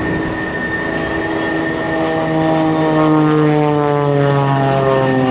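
Extra 300L aerobatic plane's six-cylinder Lycoming engine and propeller drone. The pitch falls steadily through the second half.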